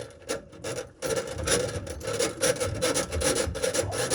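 Drain snake's steel cable scraping and rasping as it is twisted and pushed into a clogged sink drain, a quick run of gritty strokes. The strokes are sparse at first, then come thick and fast from about a second in as the cable works against a hard spot at a bend in the pipe.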